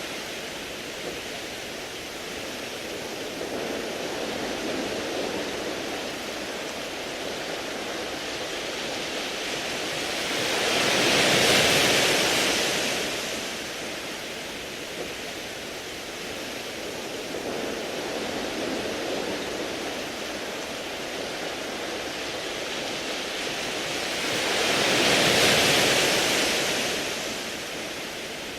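Sea waves washing onto a beach of smooth round pebbles, a steady surf wash with two louder waves breaking and surging, one a little before the middle and one near the end.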